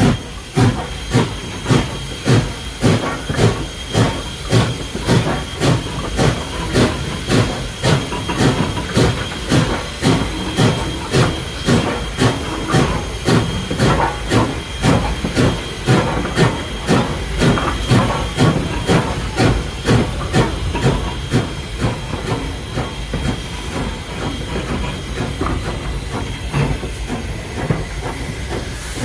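Steam train coming to a stop: a steady hiss of steam under a regular beat of about one and a half strokes a second. The beat fades away over the last several seconds, leaving the hiss.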